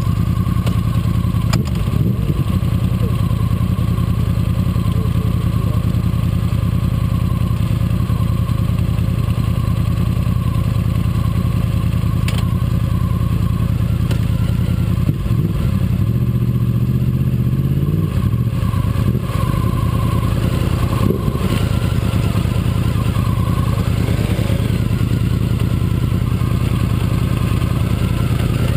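Sport motorcycle engines idling steadily, with one short rise and fall in revs about two-thirds of the way through.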